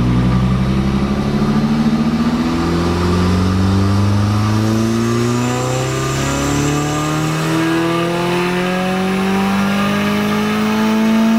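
Turbocharged Mazda Miata four-cylinder engine making a full-throttle pull on a chassis dyno, its pitch climbing steadily from low revs to about 6,000 rpm, with a faint high whine rising alongside.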